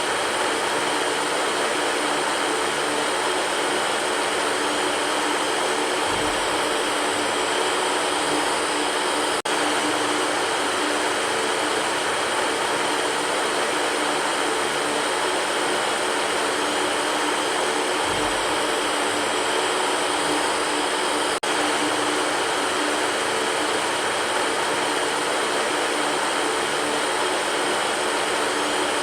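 Electric fan running steadily: an even whooshing rush with a constant motor hum. Two faint clicks come about twelve seconds apart.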